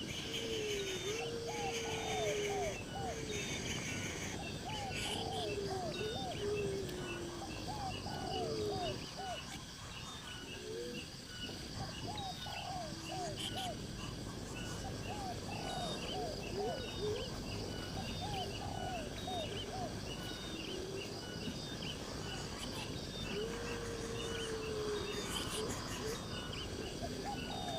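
Outdoor nature sound: birds calling in repeated short, curved notes over a steady background of insects chirring, with fast high chips running throughout.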